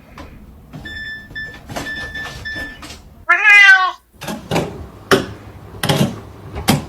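A domestic cat meows once, a long wavering call a little after three seconds in, the loudest sound here. It is preceded by a run of short high beeps and followed by several knocks.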